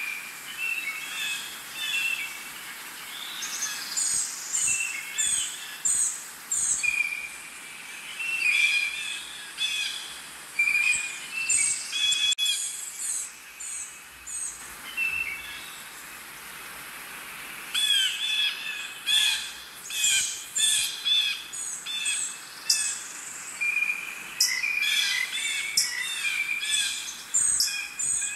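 Several birds chirping and calling, many short high notes overlapping, busiest in the last third.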